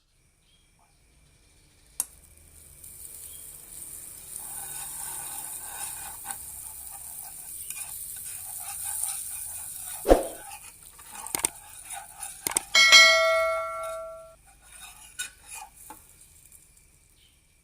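Food sizzling in a pan while metal utensils stir and scrape against the cookware, with a loud knock about ten seconds in. Near the end, metal cookware is struck and rings out clearly for a second or so.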